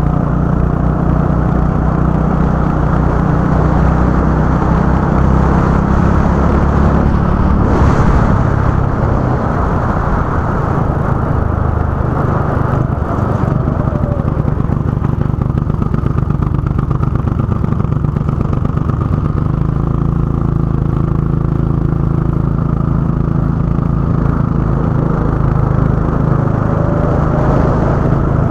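Go-kart engine running hard around a track, its note rising and falling with the throttle through the corners, with a brief knock about eight seconds in.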